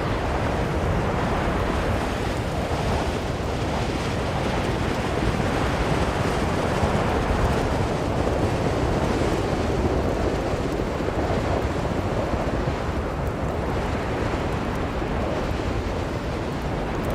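Strong blizzard wind blowing steadily, a dense rushing noise that swells a little in the middle and eases slightly toward the end.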